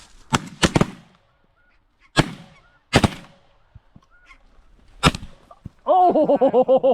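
Volley of shotgun blasts: three in quick succession, then three more spaced out over the next few seconds. Near the end comes a rapid run of snow goose honking.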